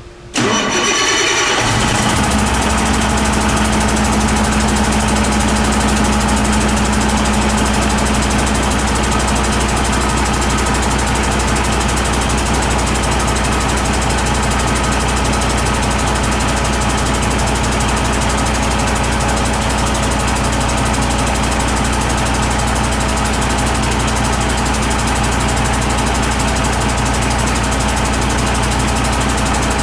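2004 Detroit Diesel Series 60 14.0 L inline-six diesel engine cranked by its starter and catching about two seconds in, then idling steadily.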